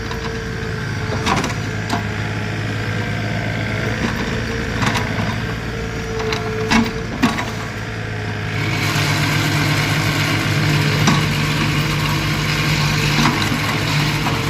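Backhoe's diesel engine running steadily, with a few sharp knocks in the first half. About nine seconds in, the engine speeds up and stays at the higher pitch.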